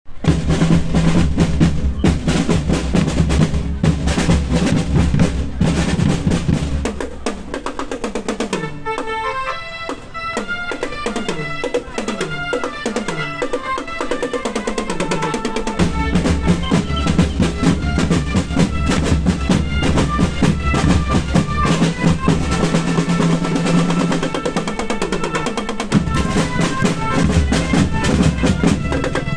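Marching band playing: a drumline with snare rolls and bass drums under melodic lines, with a run of low notes stepping downward partway through.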